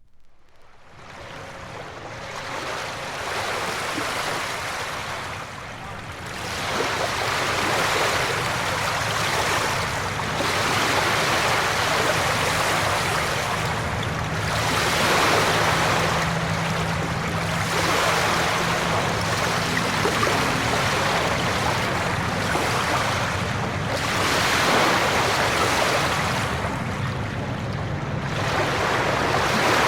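A rushing noise fades in, then swells and ebbs every few seconds, with a faint steady low hum underneath.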